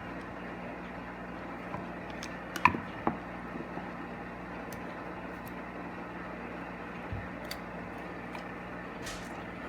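A few short, sharp clicks and taps of small tools on a plastic air-ride manual switch being prised apart, the loudest a pair of clicks about two and a half seconds in, over a steady low hum.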